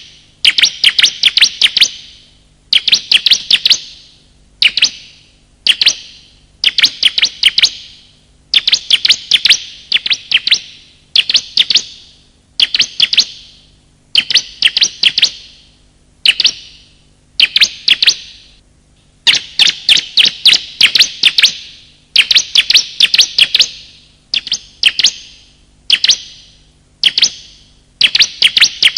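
Bar-winged prinias (ciblek), male and female, calling: loud bursts of rapid, sharp, high chirps, each burst lasting about a second and repeating with short pauses, the kind of call used as a lure to draw wild birds in or to get a caged bird to sing.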